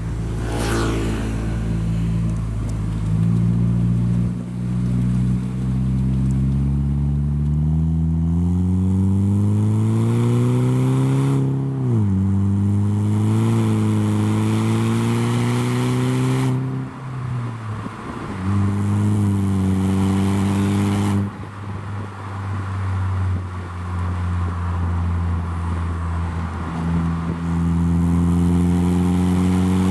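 Saab 9-3 with a custom stainless steel exhaust and switchable exhaust valve, driving under load. The engine note rises steadily for several seconds, drops sharply at a gear change about twelve seconds in, then runs steadily with two brief dips as the throttle eases before settling into steady cruising.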